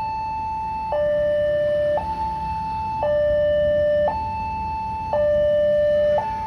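Two-tone hi-lo warning signal, a higher and a lower tone alternating about once a second, over a low rumble.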